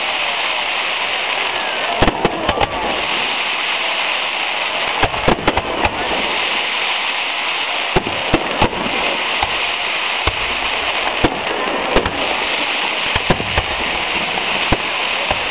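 Fireworks display going off: sharp bangs and cracks at irregular intervals over a continuous crackling hiss.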